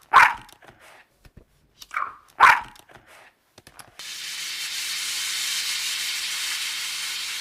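Dog barking twice, about two seconds apart, each bark a quick double. About four seconds in it cuts to a steady hiss.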